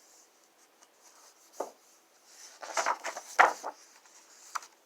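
Paper rustling and light taps as a picture book's page is handled and turned: a short rustle, then a cluster of louder rustles about three seconds in, and one last tap near the end.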